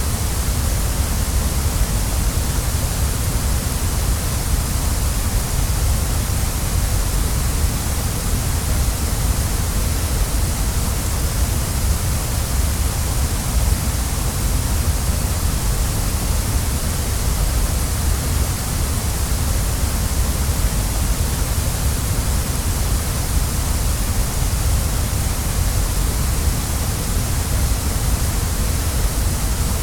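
Waterfall rushing: a steady, unbroken roar of falling water with deep rumble and bright hiss, unchanging throughout.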